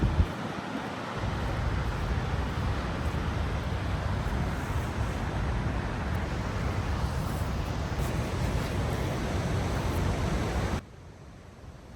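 Steady rushing noise of the Great Falls waterfall, mixed with wind buffeting the microphone. About eleven seconds in it cuts off abruptly to a faint hiss.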